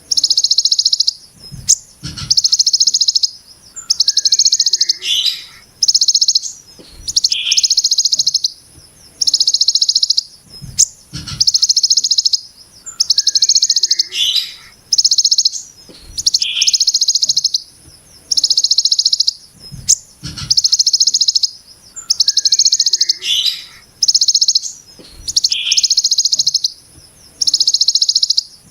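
Kolibri ninja (a sunbird) singing harsh, very rapid buzzy 'brem' bursts in the style of a hill prinia (ciblek gunung), each burst about a second long and repeated roughly every second and a half. A few short low knocks fall between some bursts.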